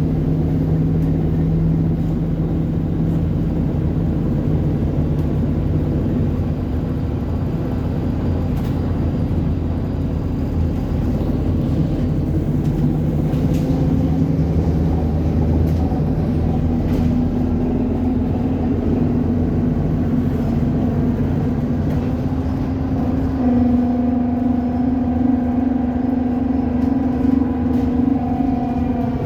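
Alexander Dennis Enviro 400 double-decker bus under way, its engine and driveline giving a steady, tram-like whining drone. About three-quarters of the way through, a louder, higher whine sets in and holds.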